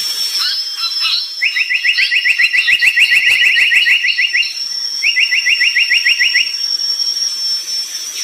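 Brown tali pocong bird singing: scattered chirps, then a fast rattling trill of rapidly repeated notes lasting about three seconds, and a second shorter trill after a brief pause. A steady high thin tone runs underneath.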